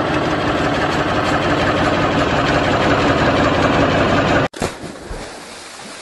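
A motor engine running steadily with a fast, even rhythm. It cuts off abruptly about four and a half seconds in, leaving a much quieter hiss.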